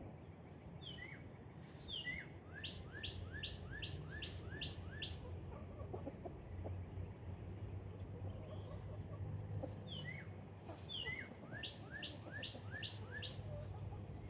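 A songbird singing twice, each song opening with a couple of high falling whistles and running into a quick series of short repeated notes, about five a second.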